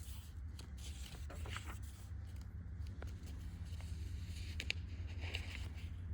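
Paper rustling and small handling clicks, scattered and irregular, over a steady low hum.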